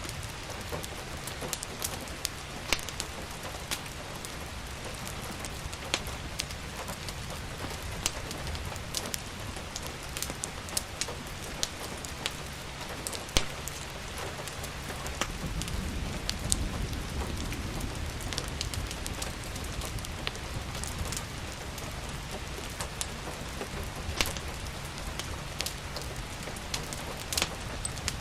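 Steady rain with scattered sharp crackles and pops from a wood fire. A low rumble swells and fades about halfway through.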